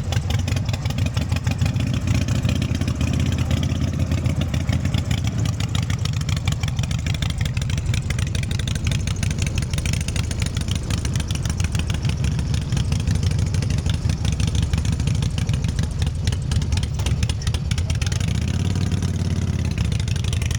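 Motorcycle engine running loudly at close range with a steady low pulse, revving briefly near the end.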